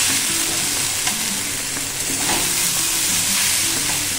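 Julienned potatoes and green capsicum sizzling in oil in a wok while a metal spatula stirs them, scraping against the pan now and then.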